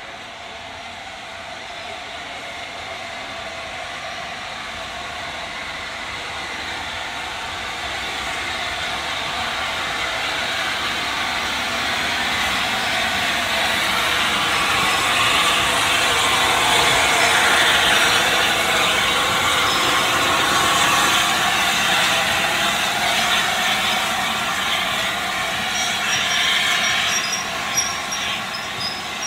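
A train rolling past, its rumble growing steadily to a peak about 18 seconds in and then fading. Short, high wheel squeals come near the end.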